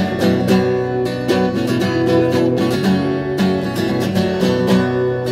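Instrumental ending of a song: acoustic guitar strumming chords in a steady rhythm, the chords ringing on between strokes.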